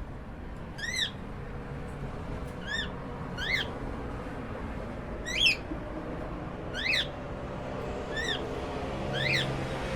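Cockatiel giving seven short chirping calls, each a quick rising-and-falling note, spaced irregularly about a second or two apart; the call a little past the middle is the loudest.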